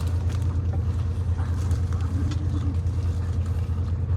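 Steady low rumble inside a moving CrossCountry diesel train, with a faint steady hum above it.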